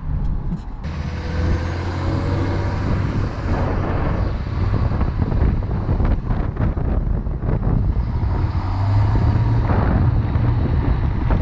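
5.9L Cummins turbo diesel engine running under load, a steady low drone with a rougher rush that builds through the middle.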